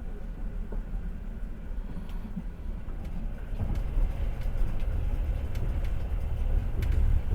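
Passenger train running along the rails, heard from inside the carriage: a steady low rumble of the wheels with a few sharp clicks, getting louder about halfway through.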